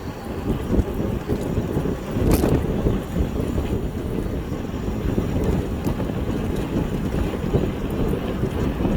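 Wind buffeting the microphone on a moving e-bike, a steady rumbling rush, with one sharp click about two and a half seconds in.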